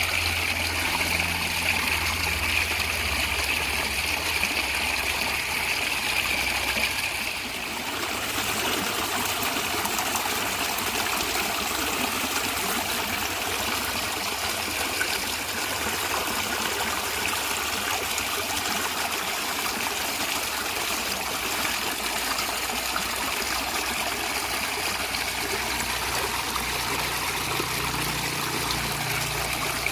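A natural stream flowing and gurgling with a steady rush of water. Its tone shifts slightly about seven seconds in.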